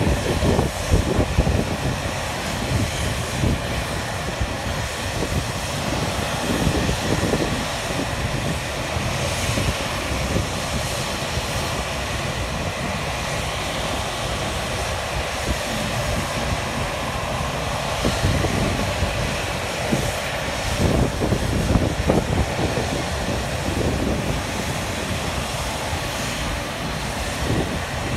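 Jet airliner's engines running at high take-off thrust: a loud, steady noise with uneven low gusts of jet blast buffeting the microphone.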